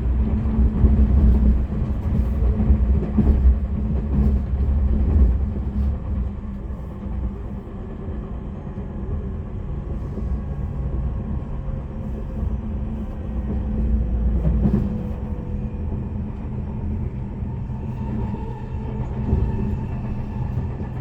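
Limited express train running on the rails, heard from inside the carriage: a steady low rumble of wheels on track with a few sharp clicks over rail joints. It is louder for the first several seconds, then eases a little.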